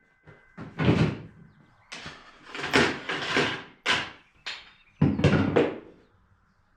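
A series of about eight sharp wooden knocks and clunks, irregularly spaced, as cut wood pieces are handled and set down on the saw table, with the faint tail of the power saw's spin-down fading out in the first half-second.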